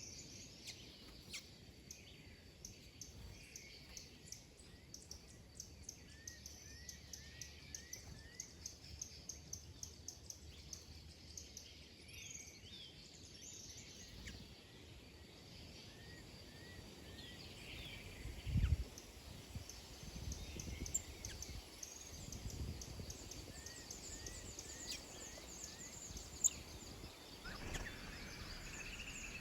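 Small birds chirping: a steady scatter of short, high calls, with runs of quick little rising notes now and then. A low thump stands out about two-thirds of the way in.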